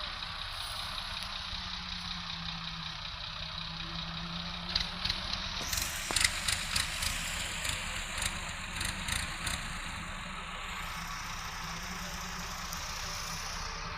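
Tractor diesel engine running steadily, with a run of sharp clanks and knocks in the middle lasting a few seconds.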